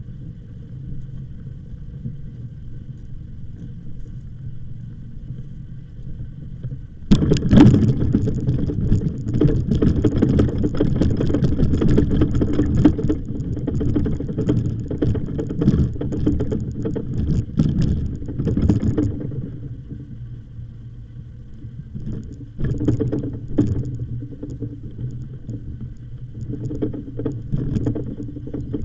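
Bicycle riding along a path: a steady low rumble of tyres and wind, then, about seven seconds in, a loud stretch of crunching and rapid rattling, typical of the bike going over rough ground, which lasts about twelve seconds and then eases to scattered rattles.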